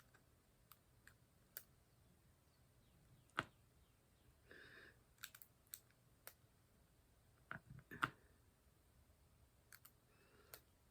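Sparse small clicks and taps at uneven intervals over near silence: diamond painting work, the drill pen and resin drills tapping on the canvas and tray.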